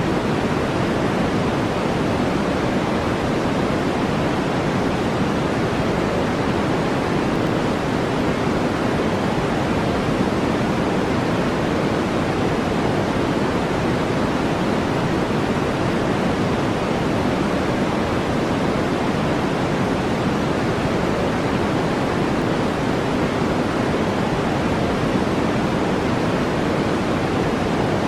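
Steady, unchanging synthetic brown-style noise, a dense hiss heavier in the low and middle pitches than in the highs.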